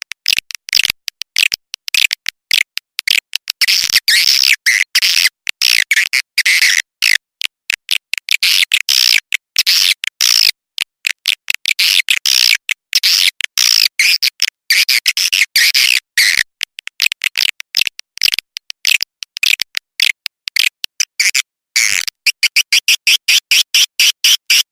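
Swiftlet lure-call recording: dense, high-pitched twittering of edible-nest swiftlets in rapid, choppy bursts broken by short silences. Near the end it settles into a steady fast pulse of repeated chirps.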